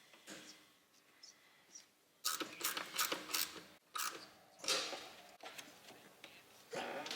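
Light mechanical clicks and knocks of hand work, with a quick run of knocks about two seconds in and another louder knock about halfway through.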